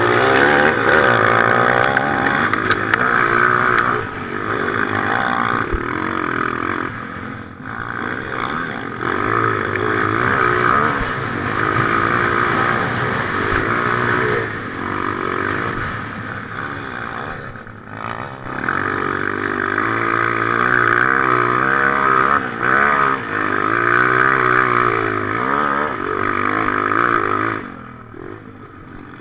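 Motocross bike engine heard from the rider's helmet, revving hard and easing off again and again as the throttle is opened and shut through the course, with brief lulls where the rider backs off.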